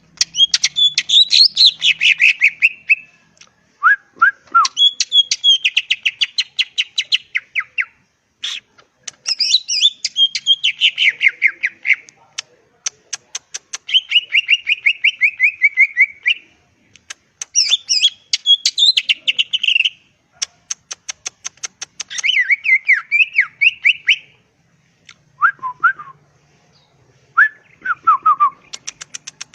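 Leafbird (cucak ijo) singing in full, energetic song: bouts of rapid chattering trills and whistled notes, each lasting a few seconds, separated by short pauses, with a few lower slurred whistles in between.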